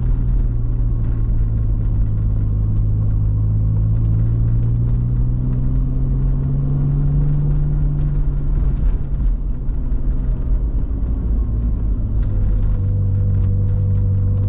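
Small roadster's engine pulling up a steep mountain road over a steady low rumble. The engine note climbs for a few seconds, drops about two-thirds of the way through, then holds steady.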